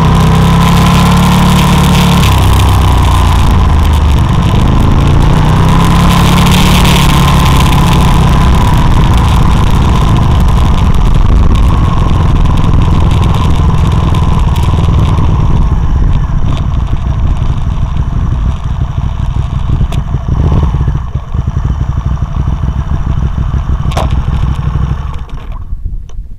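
Racing motorcycle engine close to an onboard camera, loud, its revs rising and falling as the bike rolls slowly, then settling lower and falling away near the end as the engine stops.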